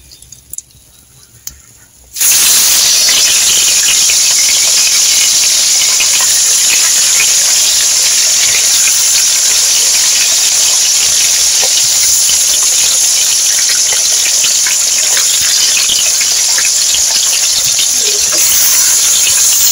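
A curry mixture sizzling loudly in hot oil in a pan: a dense crackling over a steady hiss that starts suddenly about two seconds in.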